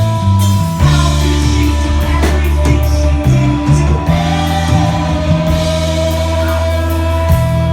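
Rock music with a voice singing over sustained guitar chords, heavy bass and drums.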